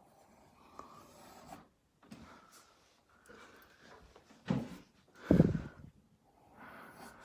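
Marker rubbing across paper in soft strokes as an oval is drawn, with two louder short bumps about four and a half and five and a half seconds in.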